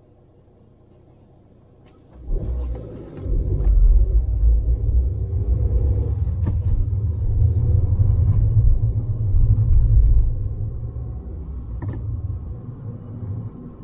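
Car engine starting about two seconds in, then running with a loud low rumble that eases off near the end, heard from inside the car.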